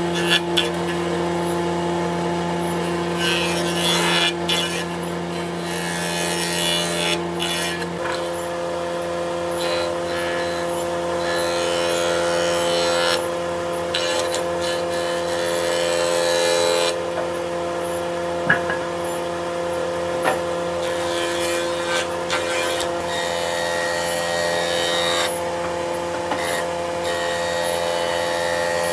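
Electric power tool running continuously while working wood: a steady motor hum whose pitch shifts about eight seconds in, with a rasping noise that swells and fades as the tool cuts.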